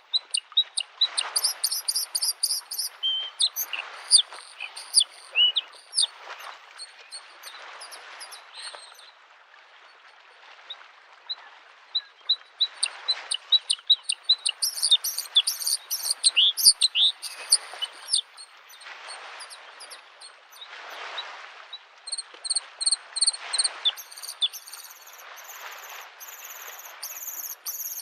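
Bluethroat singing a varied song of quick chirps, trills and high notes, pausing for a few seconds near the middle, over small lake waves washing on the shore in swells every couple of seconds.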